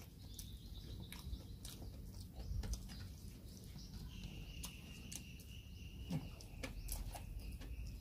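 Quiet eating sounds of people eating with their hands: chewing and lip smacks heard as scattered small clicks. A steady thin high-pitched tone runs through the second half.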